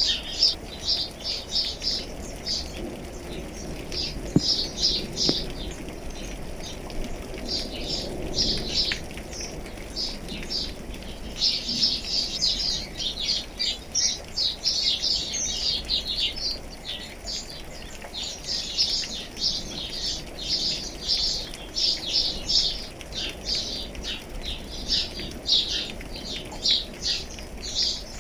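A chorus of songbirds chirping rapidly and without pause, many short high notes overlapping, during light rain. A soft low rumble sits under the chirping for a few seconds early on.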